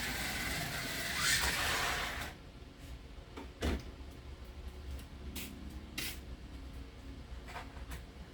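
Brass-chassis 1/24 scale slot car running on the track with a steady high rush of motor and pickup noise that cuts off suddenly about two seconds in; then one sharp thump and a few light clicks.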